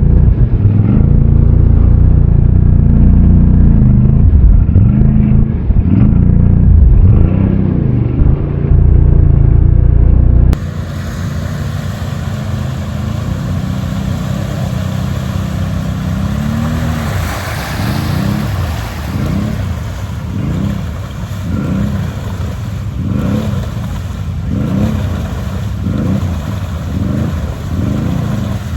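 ATV engine revving hard in a mud hole, the throttle rising and falling again and again. About ten seconds in, the sound cuts to a lighter, more distant take of an engine surging up and down about once a second, typical of wheels spinning in mud.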